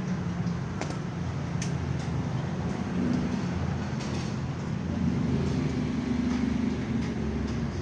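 Steady low vehicle rumble with a few light clicks.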